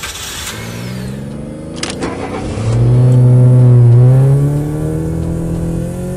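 Car engine sound effect revving, rising and falling in pitch and loudest about three seconds in, with a brief whoosh at the start.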